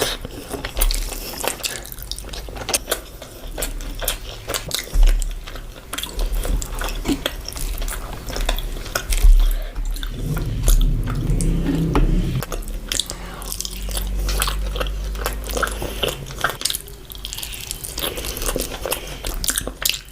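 A person eating with close mouth sounds: chewing, biting and smacking food, with many short wet clicks. Now and then a dish or utensil clinks.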